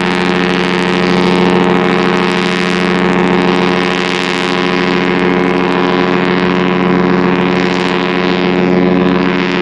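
Cruise ship's horn sounding one long, steady, deep blast of several harmonics.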